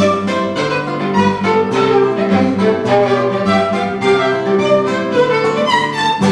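Violin and guitar duo playing a piece live, the violin carrying the melody over the guitar.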